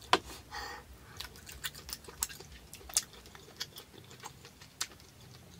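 A person chewing lobster claw meat with the mouth closed, with scattered sharp mouth clicks and smacks throughout.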